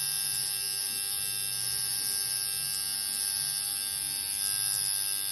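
Small handheld electric tool running with a steady, unbroken buzz and a high whine.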